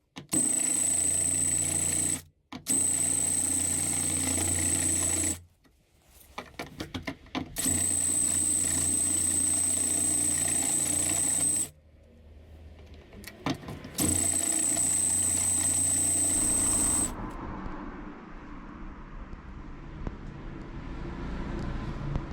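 An electric power tool runs in four bursts of a few seconds each, starting and stopping abruptly with a steady high whine over a lower hum, with a few clicks between bursts. After the last burst, a softer steady background noise remains.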